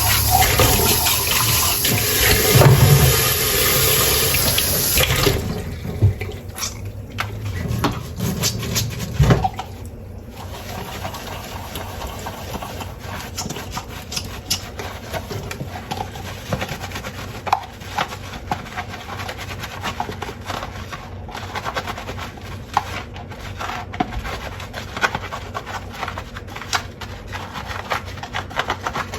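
Kitchen tap running into a sink for about five seconds, then shut off suddenly, followed by a long run of clinks and knocks of dishes and tableware being handled during hand-washing.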